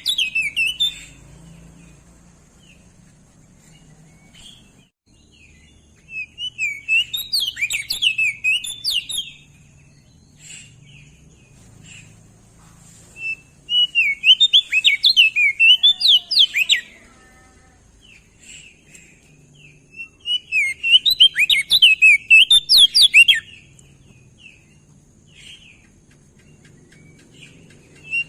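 Crested white-eye (opior jambul) singing: repeated bursts of rapid, high twittering notes, each two to three seconds long, about every seven seconds, with soft single chirps in between.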